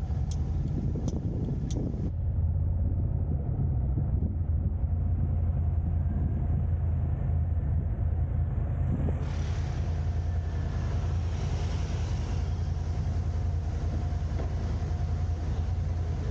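Car driving in city traffic: a steady low rumble of engine and road noise. A short run of evenly spaced ticks sounds in the first two seconds.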